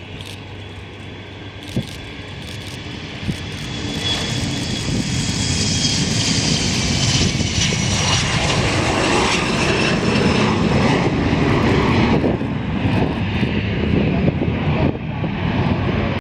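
Jet airliner's engines passing close: the noise builds over several seconds to a loud, steady rush, with a high whine that slowly falls in pitch as the aircraft goes by.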